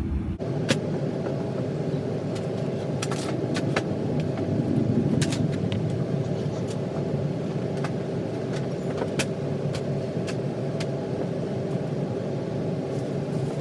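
Steady hum of an airliner cabin in a Boeing 737-900ER, with scattered light clicks and rattles.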